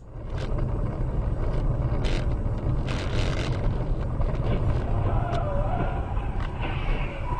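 Steady low rumble of a car on the move, with a few short hisses about two and three seconds in.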